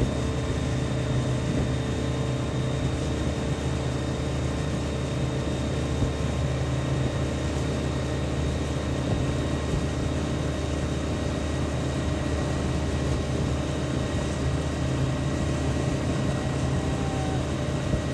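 Speedboat engine running at a steady pitch, with no change in speed.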